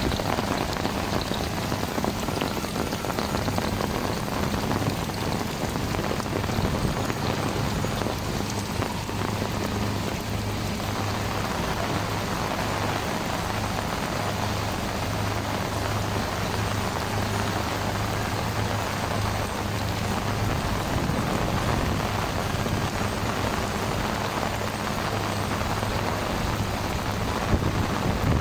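Heavy rain falling steadily and drumming on surfaces, with a low steady hum underneath.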